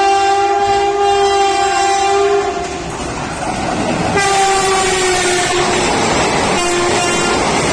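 Electric locomotive horn blowing a long blast that stops about three seconds in. A second blast sounds about four seconds in and a short one near the end, its pitch dropping slightly, over the rushing noise and rail clatter of a train passing at speed.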